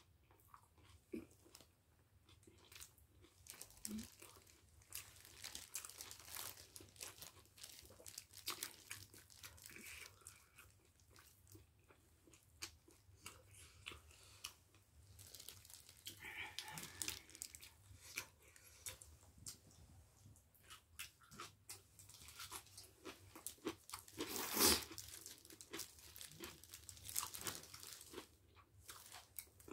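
Close-up eating sounds: crunchy kimchi being chewed, with the crinkle of disposable plastic gloves as the food is handled. There is one louder noise about 25 seconds in.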